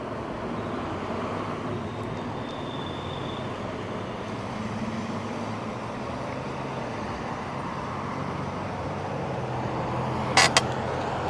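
Steady road and wind rush while riding a Jansno X50 electric bike, with a low hum underneath. Two sharp clicks come close together near the end.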